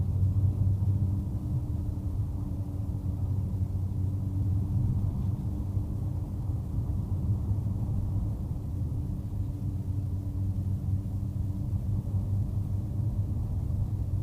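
Car driving along at a steady speed: an even engine drone and road rumble, heard from inside the cabin.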